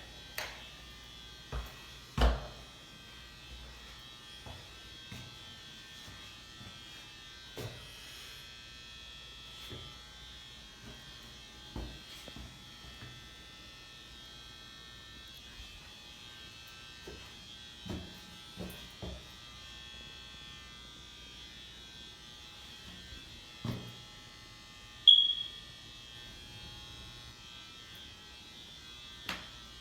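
A steady faint electrical hum made of many pitched tones, like a small motor or electronics. Scattered short knocks and clicks come every few seconds, and one sharp, short high sound comes about 25 seconds in.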